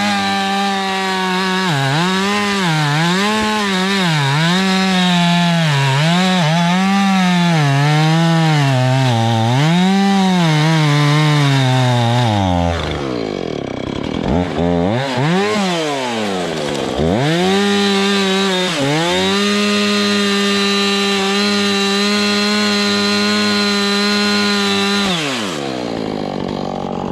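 Two-stroke chainsaw running at full throttle. Its pitch dips and recovers again and again as it bogs under load while cutting into a log. About twelve seconds in it drops toward idle with a few quick revs, then runs steady at full throttle again before falling back near the end.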